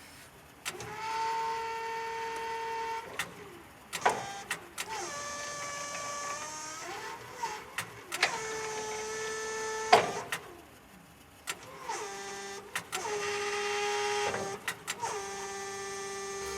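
Electric motor of an Atlet 200BTE warehouse truck whining in about six runs of one to three seconds each, each run holding a steady pitch after a short rise at the start. Sharp clicks fall between the runs.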